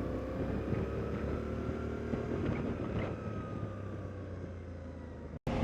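Motorcycle engine running under way, its pitch drifting slowly, with some wind noise; the sound eases slightly, then cuts off abruptly about five seconds in.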